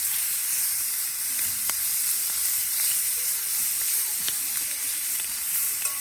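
Meat sizzling steadily in a cast-iron skillet over a campfire, with a few sharp pops of spitting fat.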